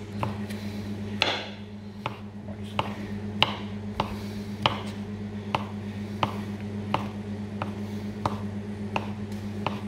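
Microwave oven running with a steady low hum, while sharp taps come at an even pace of about three every two seconds.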